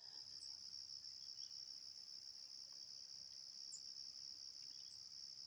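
Crickets chirring in a faint, steady, unbroken high-pitched chorus, with a couple of brief faint high chirps over it.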